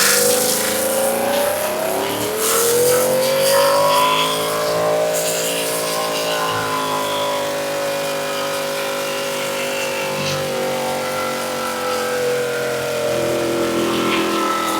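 Car engine revving up over a few seconds, then held at high revs, easing off slightly near the end, as in a burnout.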